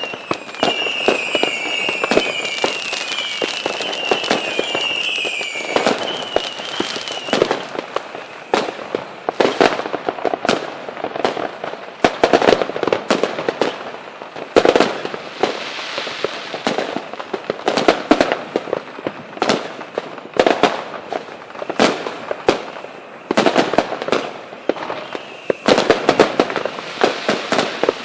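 Fireworks display: a rapid run of sharp bangs and crackling cracks. For about the first seven seconds a shrill wavering whistle from whistling fireworks sounds over them.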